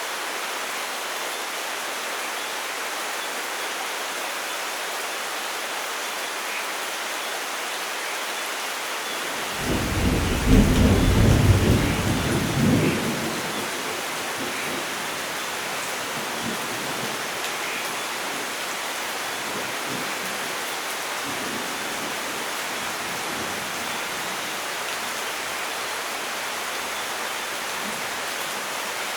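Steady rain hiss with one roll of thunder that rises about nine seconds in, peaks for a couple of seconds with a few cracks and rumbles away within about four seconds.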